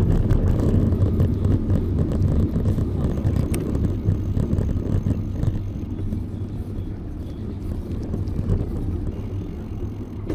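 Low rumble of wind on the microphone and road noise while riding a bicycle, fading slowly over the stretch.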